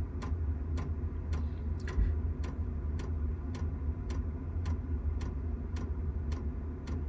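Diesel air heater's fuel dosing pump ticking at an even beat of about three clicks a second, over a low steady hum.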